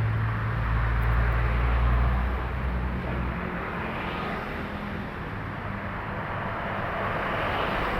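Heavy trucks passing on a highway. A diesel engine's low drone is heard for the first three seconds or so, then the rush of tyres and wind as vehicles go by, swelling about halfway through and again near the end.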